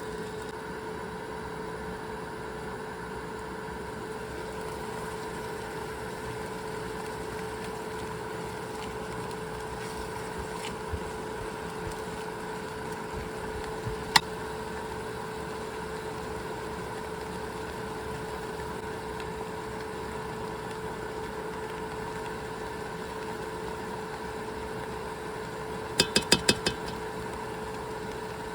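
A steady mechanical hum with a constant tone, broken by a single sharp click about halfway through and a quick run of about five clicks near the end.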